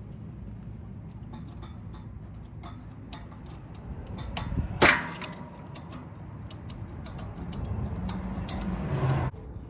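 Hand work on a motorcycle's rear shock mounting: scattered metal clicks and taps of tools and parts, with one loud metallic clang that rings briefly about five seconds in.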